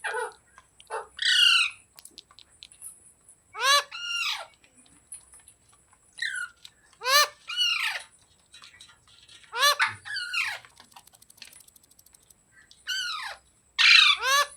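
Pet green parrot squawking: short calls that each fall sharply in pitch, mostly coming in pairs every two to three seconds.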